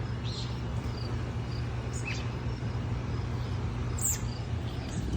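Yard ambience: a few short, high bird chirps scattered through, over faint, evenly repeated high chirping and a steady low hum.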